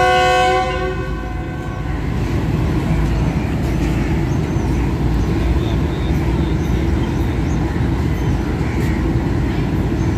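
Diesel locomotive horn sounding a multi-note chord that cuts off about a second in, followed by the steady low rumble of the train.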